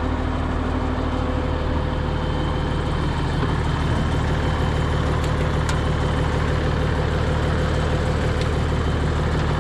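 Case 2670 tractor's diesel engine running steadily at a constant speed, with a faint steady whine over the engine hum.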